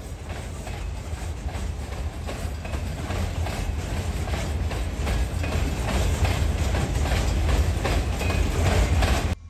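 Freight cars of a passing train rolling by, their wheels clacking over rail joints, growing steadily louder. The sound cuts off abruptly just before the end.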